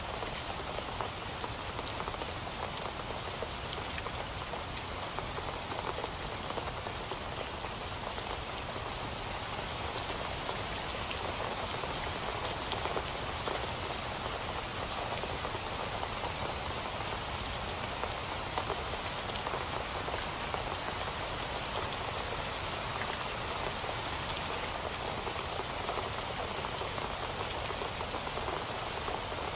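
Steady rain falling and pattering on a surface, a dense even hiss of many drops with fine individual drop ticks.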